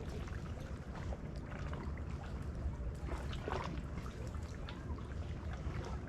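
Small waves lapping and trickling against a kayak hull in a run of irregular little splashes, over a steady low rumble.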